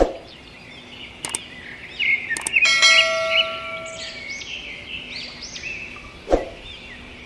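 Small birds chirping repeatedly in quick rising and falling calls, with a sharp knock at the start and another about six seconds in, a few light clicks, and a steady tone lasting about a second and a half near the middle.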